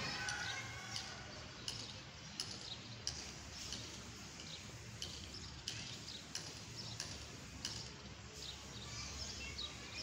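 Small birds chirping a few times, around the start and again near the end, with scattered sharp clicks over a steady low hum.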